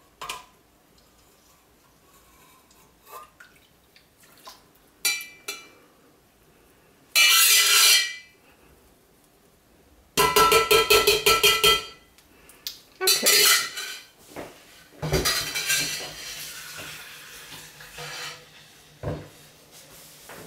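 Kitchen utensils and containers clattering, clinking and scraping against a soap pot while lye solution is added to the oils. There are scattered clinks, then louder bursts of clatter about a third and halfway through, and a rapid rattling run about halfway through.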